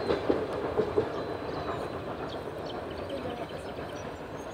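Rumble of the Mary Valley Rattler steam train's wheels on the track as it moves away, with a few clacks over the rail joints in the first second and a gradual fade.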